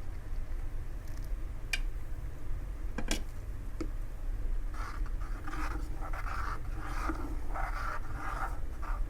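A spoon scraping and stirring around a pan of white sauce (flour fried in ghee, thinned with hot milk) so it comes out smooth without lumps. A few sharp clicks of the spoon against the pan come first, then a run of repeated scraping strokes through the second half, over a steady low hum.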